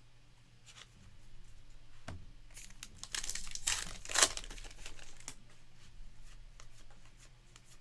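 A trading-card pack wrapper being torn open and crumpled, crackling loudest about three to four seconds in.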